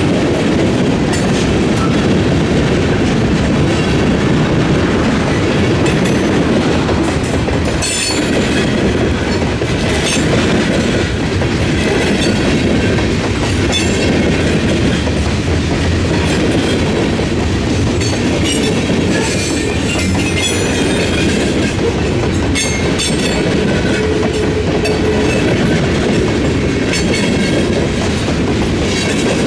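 Freight train cars rolling across a railroad diamond crossing: a steady rumble with a continual clatter of wheels striking the gaps in the crossing rails.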